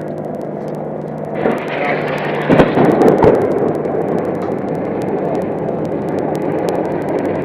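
AH-64 Apache helicopter's steady rotor and engine drone, then about one and a half seconds in a sudden loud rush with two sharp bangs of weapons fire or explosions, settling into a rumble.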